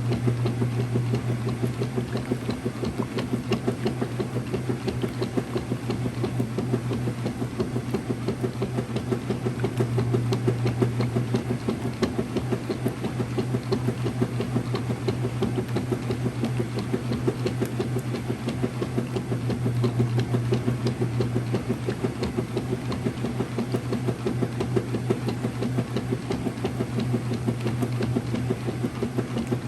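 Early-2000s Whirlpool direct drive washer running through a cycle: a steady motor hum with a fast, even rhythmic churning over it.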